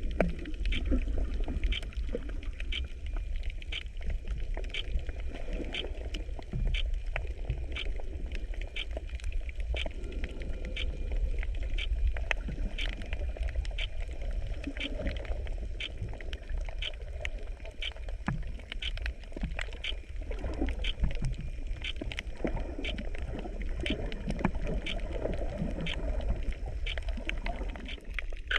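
Underwater recording from a GoPro in its housing: a steady low rumble and churn of moving water, with a faint regular ticking about three times every two seconds.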